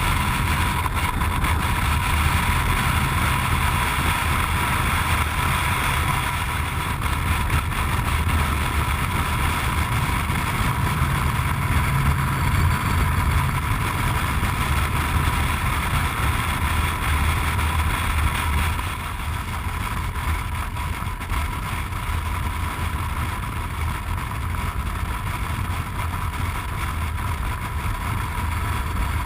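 Motorcycle engine running at steady road speed, with a constant rumble and wind noise from riding; it gets a little quieter about two-thirds of the way through.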